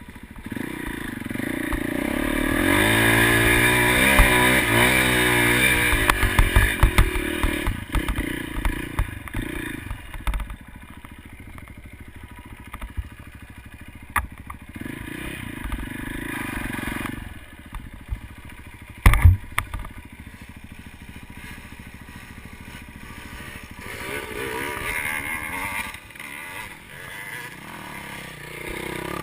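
Motocross dirt bike engines: one bike passes close and loud from about two to seven seconds in, its revs rising and falling, then bikes run fainter, with a sharp knock a little past the middle and another bike swelling up near the end.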